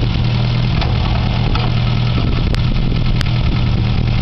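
1952 MG TD's 1250 cc four-cylinder XPAG engine idling steadily, just after being started by hand crank.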